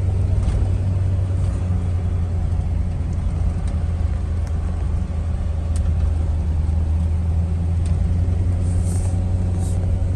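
A 2000 Ford F250's 5.4-litre V8 pulling the truck down the road, with a steady, even low rumble of engine and road noise. It is running smoothly now that the idle air control valve and throttle body have been cleaned.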